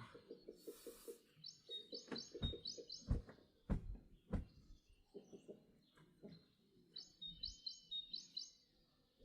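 A songbird singing twice, each a short phrase of quick repeated high chirps, over a fast low rattling and several sharp knocks in the first half.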